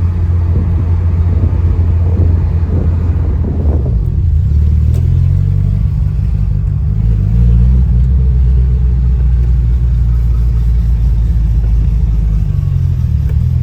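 Classic Ferrari V8 engine running while the car is driven on the road, a steady low drone whose pitch shifts about four seconds in, as with a gear change, then holds steady.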